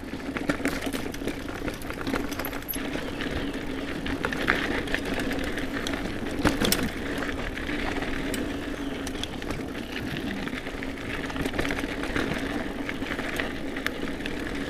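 Mountain bike riding singletrack: tyres rolling over dirt with the frame and parts rattling and clicking over bumps, under the steady buzz of a Hope Tech Pro 4 rear hub freewheeling.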